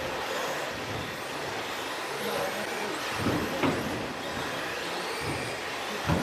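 Electric RC stadium trucks racing on a track: a steady noise of motors and tyres, with a few short knocks about three seconds in and again near the end.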